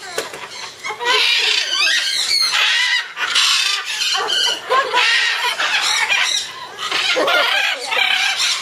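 A flock of parrots squawking, screeching and chattering at once, a loud, continuous din of overlapping shrill calls and whistles.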